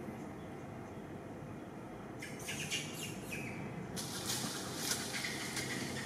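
Birds chirping in rapid short calls that slide down in pitch. The calls start about two seconds in and grow busier near the end, over a steady outdoor hiss.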